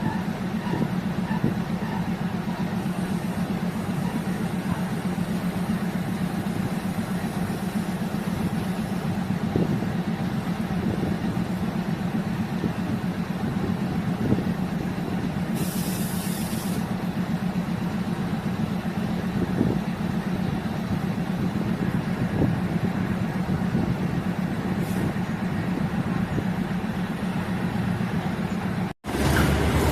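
Diesel multiple unit railcar running along the track: a steady engine drone with scattered small knocks, and a short hiss of air about halfway through. The sound cuts out for an instant near the end.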